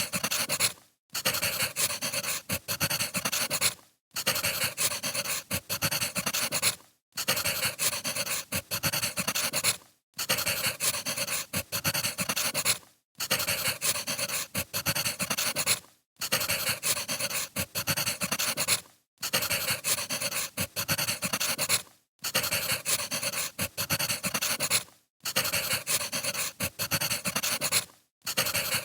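Crackling wood fire as a short looped sound track, repeating about every three seconds with a brief drop to silence between repeats.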